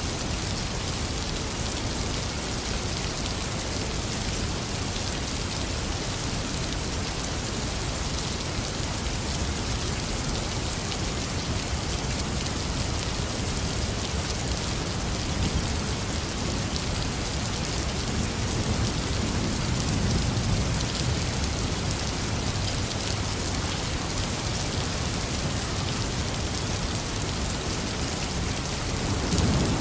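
Heavy rain falling in a steady, dense hiss. A low rumble of thunder swells and fades about two-thirds of the way through, and a louder thunder rumble starts building near the end.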